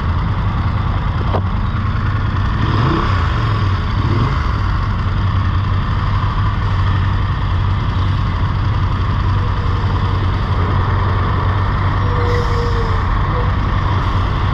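Motorcycle engine running steadily, with a brief change in pitch about three seconds in.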